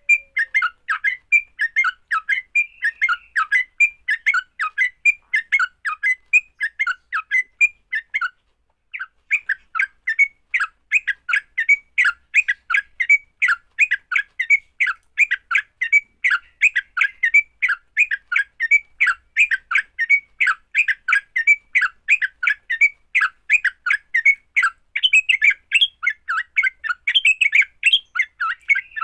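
Yellow-vented bulbul (trucukan) giving its aggressive fighting song: a fast, continuous chatter of short notes, about four or five a second, with one short break about eight seconds in.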